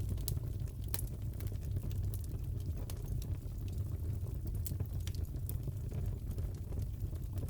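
Wood fire crackling in a fireplace: a steady low rumble with scattered, irregular sharp pops and snaps.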